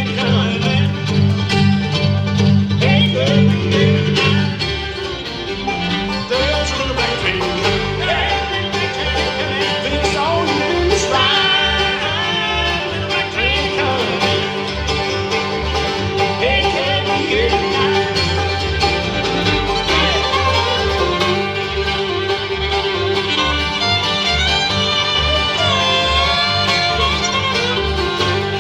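Live acoustic bluegrass band playing an instrumental break with no singing: fiddle, banjo, mandolin, acoustic guitar and upright bass. A loud low chord is held for about the first four seconds, then the bass moves note by note under the melody.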